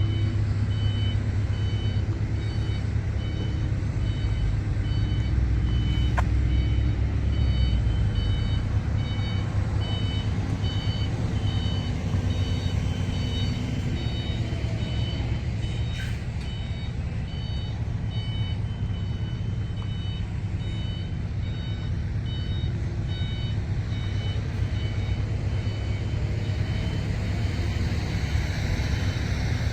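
Diesel engine of a rice combine harvester running steadily, with its warning beeper sounding a repeated high beep over it.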